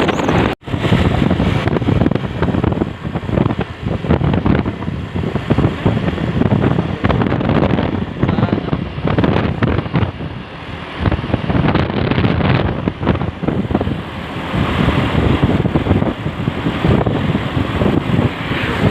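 Truck on the move, its running noise mixed with wind buffeting the microphone, with a brief dropout about half a second in.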